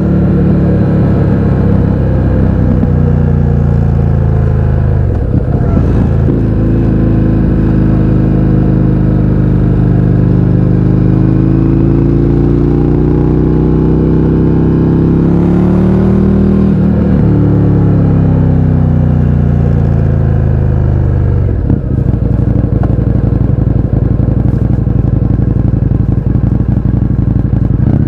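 Indian FTR 1200's V-twin engine through an Akrapovič exhaust with the baffles removed, ridden on the road: the engine note rises under throttle, with one long pull in the middle, and drops sharply a few times as the rider shifts or backs off.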